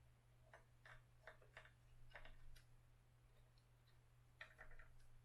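Faint, scattered light clicks and taps of small hardware and parts being handled during assembly, a quick cluster in the first few seconds and a few more near the end, over a low steady hum.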